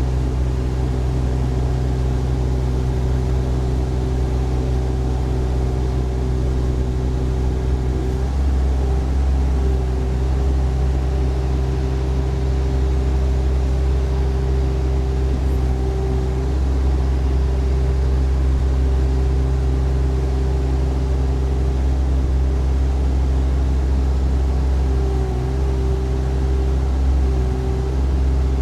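Compact excavator's Yanmar diesel engine running steadily. Its note shifts slightly about eight seconds in and wavers a few times later on.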